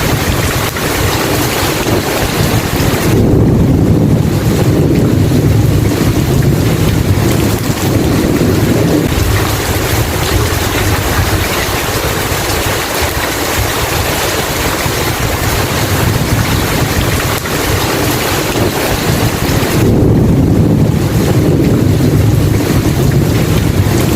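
Steady heavy rain with rolling thunder: a long low rumble swells a few seconds in and fades, and another builds near the end.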